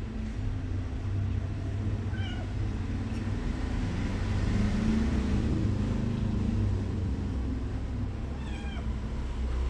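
A domestic cat meowing twice: short calls about two seconds in and near the end, over a steady low rumble.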